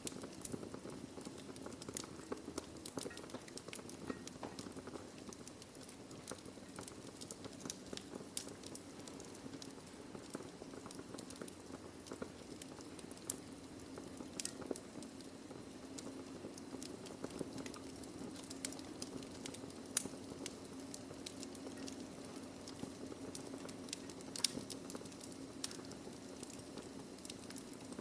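Wood fire burning in a fireplace: irregular crackles and sharp pops of burning logs over a low steady hiss, with one louder pop about twenty seconds in.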